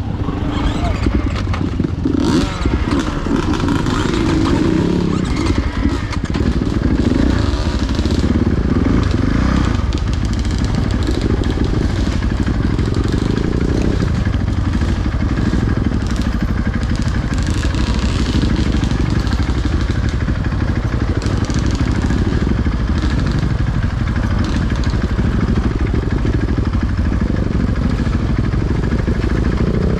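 Dirt bike engine running under way, its pitch rising and falling with the throttle.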